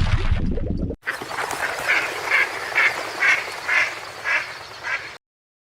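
A series of about eight short, repeated animal calls, roughly two a second, which stops suddenly near the end. Before them, in the first second, a louder low rumbling noise cuts off abruptly.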